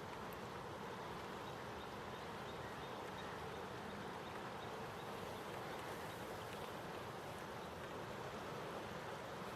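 Steady rushing of a swollen, flooded river, an even unbroken noise.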